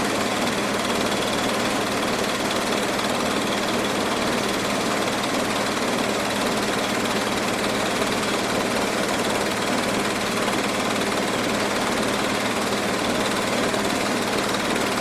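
Diesel engine of a pellet mill running at a steady speed, with an even mechanical drone and no change in pitch or level.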